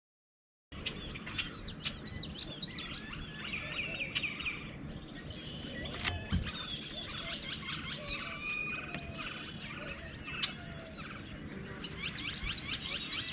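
Several birds chirping and singing at once, many short overlapping calls and trills, over a steady low background rush. The sound starts abruptly just under a second in, and one sharp click comes about six seconds in.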